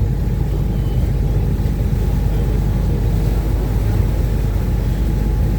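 Thames river-bus catamaran under way at speed: a steady, loud low rumble of its engines mixed with water rushing past the hull.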